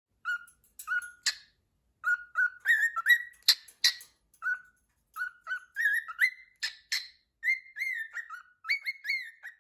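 A cockatiel whistling a string of short, quick notes, some sliding up and some down, with a few sharper chirps mixed in.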